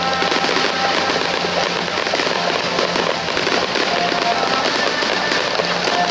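A dense fireworks barrage: many shells bursting at once in a continuous rapid crackling and popping, with music playing underneath.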